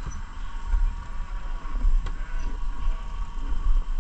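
BMW R1150GS motorcycle's boxer-twin engine running at low speed, heard as an uneven low rumble mixed with wind buffeting on the helmet microphone.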